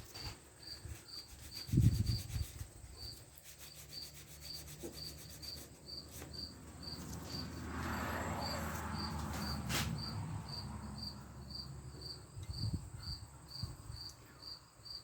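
A cricket chirping steadily, a high even chirp repeating a few times a second. Underneath it come quiet shop-handling sounds: a low thud about two seconds in, rubbing around the middle and a sharp click, as measuring gear is moved on the lathe bed.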